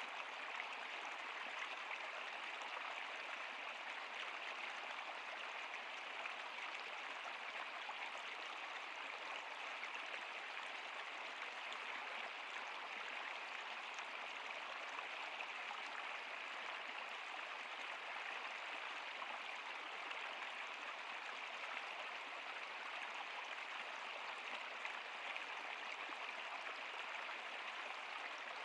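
A stream or small river flowing, a steady even rush of water.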